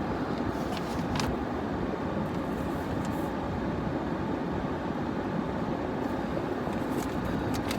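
Steady low rumble of a car running, heard from inside the cabin, with a couple of faint clicks.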